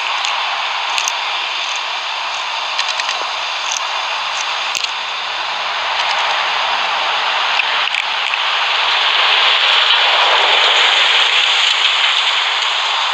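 Boeing 737-800 jet engines at takeoff power: a loud, steady rushing noise that swells about nine seconds in.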